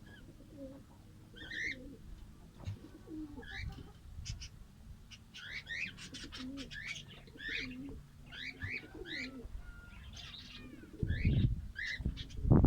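Fischer's lovebirds chirping, a quick string of short, sharp, high calls, busiest in the middle. About eleven seconds in, a few loud low thumps come in over them.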